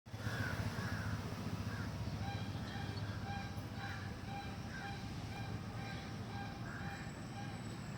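Birds calling: short calls and a rapidly repeated note over a steady low hum.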